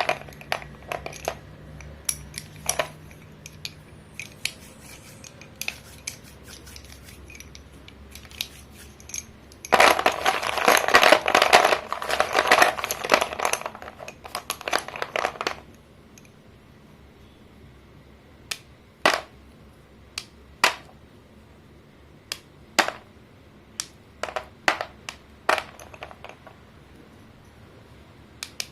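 Sticks of chalk breaking and crumbling. A dense run of crunching and crackling lasts several seconds near the middle, and single sharp snaps follow at uneven intervals toward the end.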